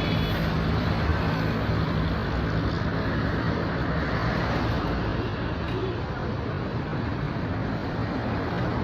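Street traffic: a motor vehicle's engine hum fades away over the first few seconds, over a steady wash of traffic noise.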